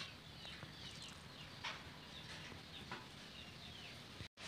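Faint birds chirping in the background: several thin, high chirps that fall in pitch, with a couple of soft clicks.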